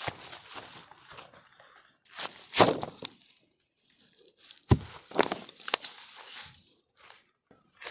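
Irregular crunching and crinkling rustles of dry material, with two sharper knocks about two and a half and four and a half seconds in.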